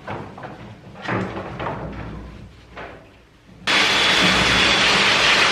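A few knocks and rattles of handling, then, about three and a half seconds in, a shower head's water spray turns on suddenly and runs as a loud, steady hiss, ready for bathing the dog.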